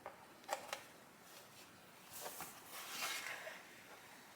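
Faint handling noises of small motorcycle badges with press-on clips: three light clicks in the first second, then a brief rustle and scrape about two to three seconds in.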